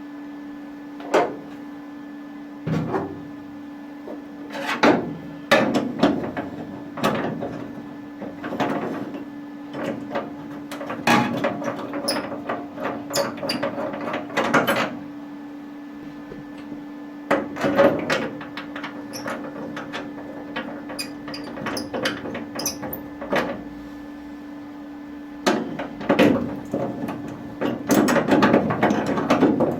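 Workshop clatter: irregular knocks, taps and short scraping rattles of tools being handled and worked, over a steady low hum.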